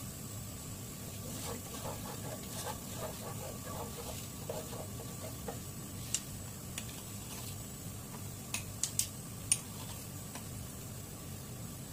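A spoon stirring butter and sugar melting into caramel in a pan, with light crackling and a few sharp clicks of the spoon against the pan, most of them bunched together about two-thirds of the way in.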